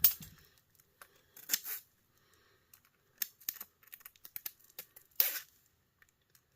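Hand tools scraping and snipping at a piece of wire from a scrapped electric heater, in a string of short, sharp scrapes and small clicks with brief pauses between. The wire is being cut into to check whether it is copper.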